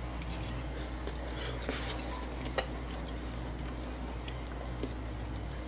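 A person quietly chewing a mouthful of food, with a few soft mouth clicks near the middle, over a steady low hum.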